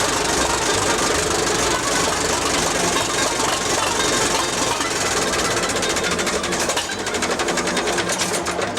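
Antique tractor engine running steadily, with a fast, even knocking beat.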